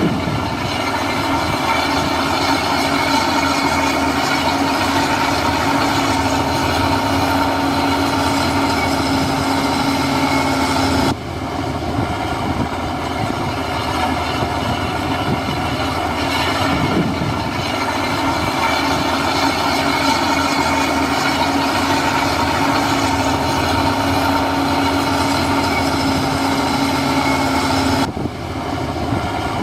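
Heavy diesel earthmoving machine running steadily under load, with a steady whining tone that comes and goes. The sound changes abruptly about eleven seconds in and again near the end.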